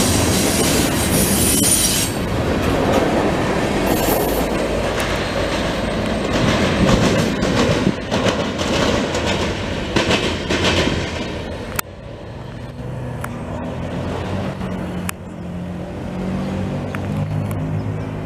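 Freight cars rolling past on steel wheels, clattering over the rail joints with wheel squeal. The noise drops off sharply about two-thirds of the way through as the end of the train passes, leaving a low, steady engine hum.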